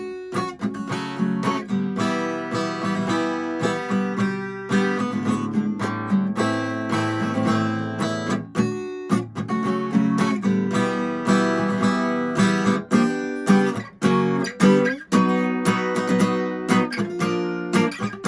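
Acoustic guitar strummed in rhythmic chords, an instrumental song intro with no singing.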